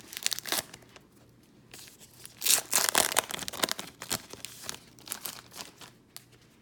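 Foil trading-card pack wrapper being torn open and crinkled by hand, a short rip near the start and the loudest stretch of tearing and crumpling around the middle, then a few light rustles.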